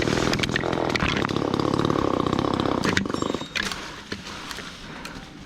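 Chainsaw running at full throttle, cutting through a black maple limb, then dropping back to a much quieter idle about three and a half seconds in.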